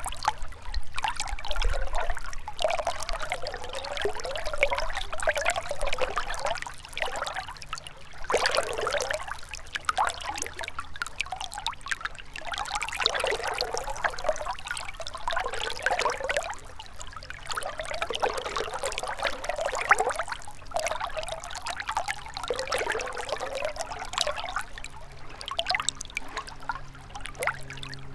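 A gentle river flowing, its water trickling and splashing in a steady rush that swells and eases every second or two.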